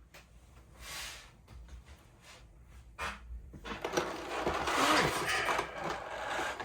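Model-kit packaging being handled: a few soft knocks, then from about three and a half seconds in a steady crinkling and rustling as the packed parts are opened.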